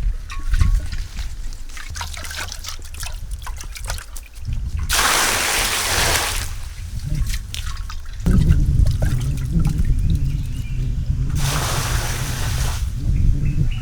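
Water trickling and splashing, with two louder rushes of water a few seconds apart, over a steady low rumble.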